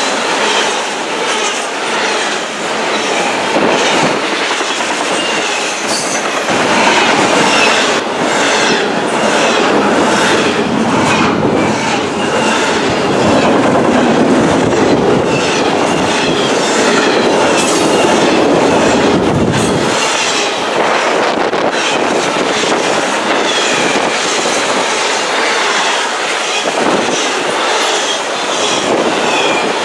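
Intermodal freight train passing close by: a continuous rolling rumble of the cars, with steel wheels clicking and clattering over the rails throughout.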